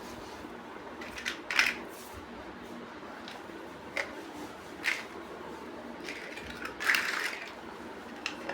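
Plastic building-block bricks clicking and snapping together as they are handled: a handful of short sharp clicks, spaced irregularly, with a louder cluster about two thirds through.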